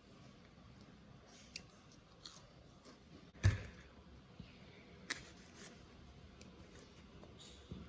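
Quiet eating sounds: chewing on waffle fries, with a few soft crunches and clicks. One louder thump about three and a half seconds in, and a smaller click about five seconds in.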